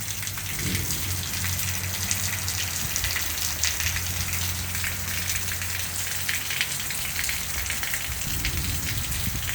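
Heavy rain falling steadily, with many close drops ticking and a low rumble underneath.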